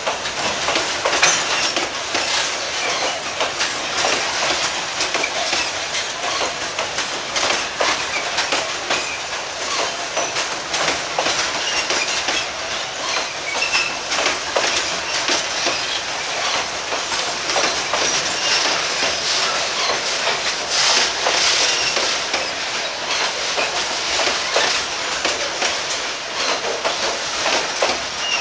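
A freight train of loaded boxcars rolling past: a steady rattle of steel wheels on the rails, with a continual clatter of clicks as the wheels cross rail joints.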